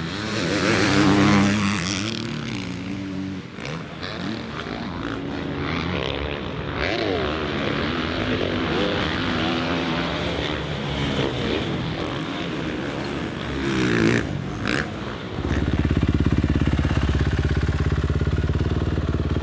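Motocross bike engines revving hard on track, the pitch rising and falling with the throttle and gear changes. About three-quarters of the way in one engine settles into a steady, held note until just before the end.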